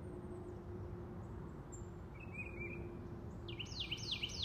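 Faint outdoor ambience with a low rumble, and a songbird singing: a short chirp about two seconds in, then a quick run of repeated down-slurred whistled notes, about three or four a second, starting near the end.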